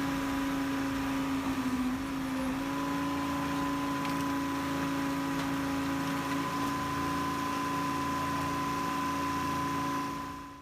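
Heavy industrial recycling machine running with a steady mechanical hum and a constant whine, fading out near the end.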